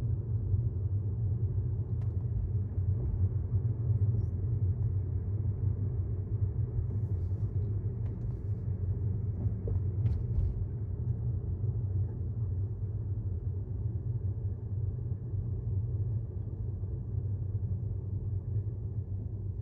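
Steady low rumble of tyre and road noise inside the cabin of a 2018 Tesla Model S 75D, an electric car with no engine note, rolling at low speed.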